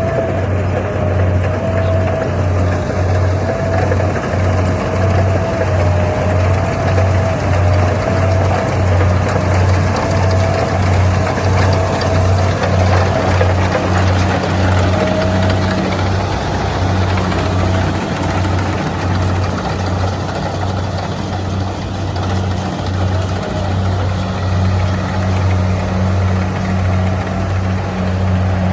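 Kubota combine harvester running steadily, a loud engine drone with a pulsing low hum and a wavering higher whine that fades out about halfway through.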